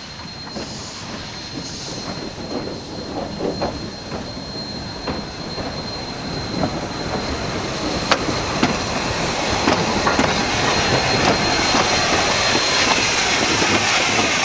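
A narrow-gauge train rolling along the rails and getting steadily louder. A thin, steady high-pitched wheel squeal runs through it, with irregular clicks and knocks from the wheels on the track.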